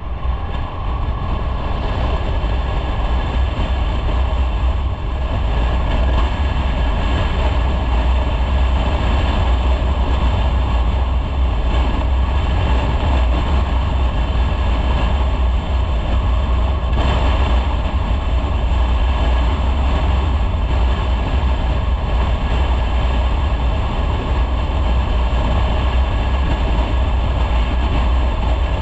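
Motorcycle running at road speed with wind on the microphone: a loud, steady rumble that holds throughout.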